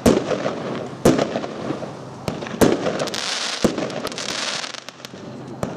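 Aerial fireworks bursting in the sky: a sharp bang about once a second, each echoing away, with a hiss from about three seconds in to about four and a half.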